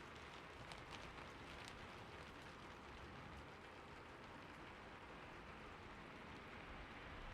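Faint, steady rain ambience: a soft even patter with occasional individual drop ticks.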